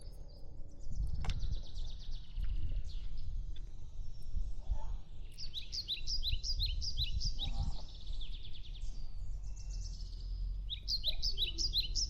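Birds calling in quick runs of short, high, repeated chirps, loudest in two bursts about halfway through and near the end, over a constant low rumble.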